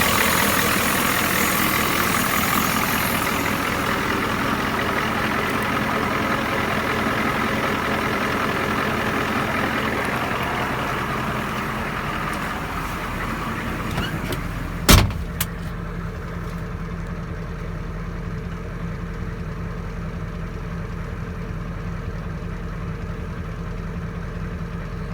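Turbocharged 7.3 IDI V8 diesel with a 3 1/2-inch exhaust idling, a higher hiss in its sound fading away over the first half. A single sharp knock about fifteen seconds in, after which the engine runs on at a steady idle.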